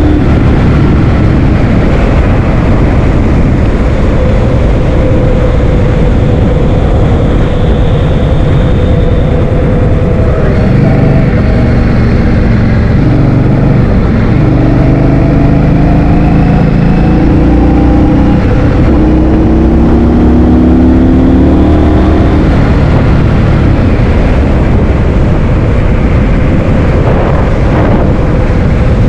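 Heavy wind buffeting on the microphone while riding, with a vehicle engine underneath whose pitch climbs in the middle stretch.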